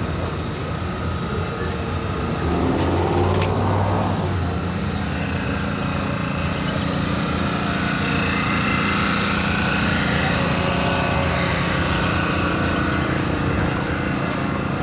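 An engine running steadily, with a single sharp click about three and a half seconds in.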